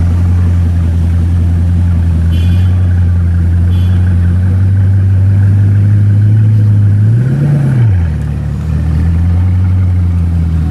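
Car engine running steadily under load, its pitch swelling up and back down once about seven seconds in.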